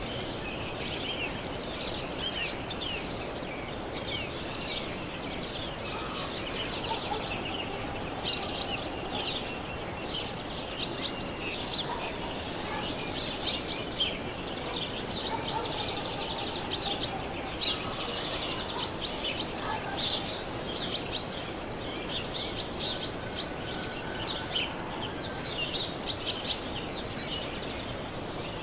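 Tropical forest ambience: a dense chorus of many small birds chirping and calling over a steady background hiss, with a few longer held whistled notes about midway.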